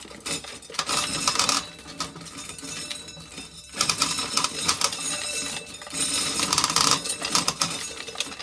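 Dry field corn being shelled off the cob, the kernels rattling and clattering down in repeated bursts of a second or two with short pauses between.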